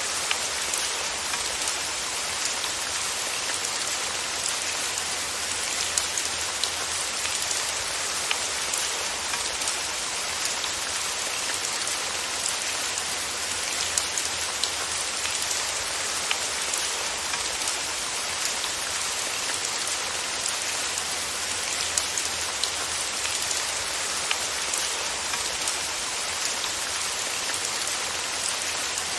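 Steady rain falling, an even hiss with scattered sharper drop ticks on top.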